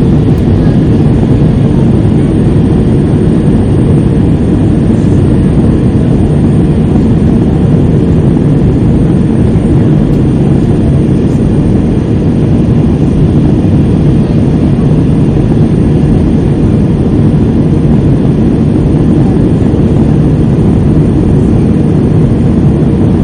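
Jet airliner's engines and rushing air heard from inside the passenger cabin: a loud, steady, deep noise that does not change.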